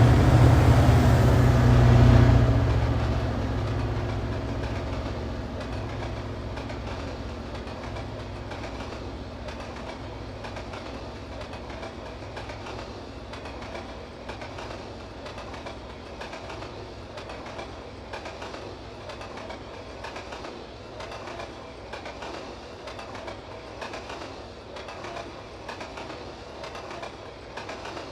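Freight train of mixed manifest cars rolling past. A loud low rumble for about the first two seconds gives way to the steady roll of the cars, with a regular clickety-clack of wheels over rail joints, slowly fading.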